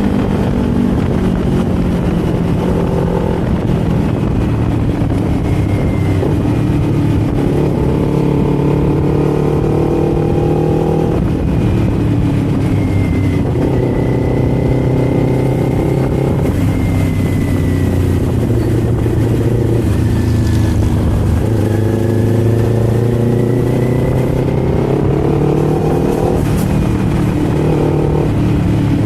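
Kawasaki Z400 parallel-twin engine and exhaust under way. The note climbs as the bike accelerates, then drops back suddenly several times at gear changes or throttle lifts.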